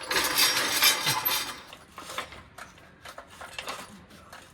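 Cardboard and a jack being handled and set in place under the engine: a scraping rustle for about a second, then a run of light clinks and knocks.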